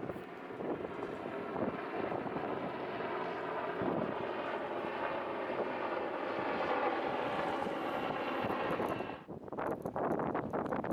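Steady engine drone with a held, humming tone that cuts off suddenly about nine seconds in, after which wind buffets the microphone.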